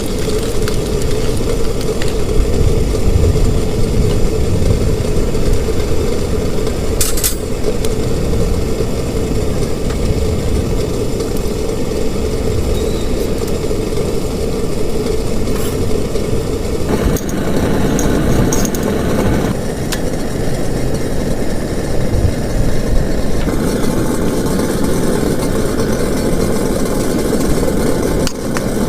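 Heavy rain drumming steadily on a plastic tarp, with a low rumble under it and a few brief sharp taps.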